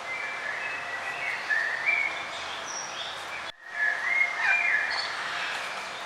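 Several songbirds chirping and singing in short phrases over a steady outdoor hiss. All the sound cuts out for an instant about three and a half seconds in.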